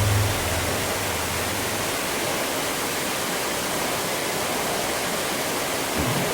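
Waterfall rushing as a steady, even roar of falling water. A low hum fades away in the first two seconds, and there is a soft thump near the end.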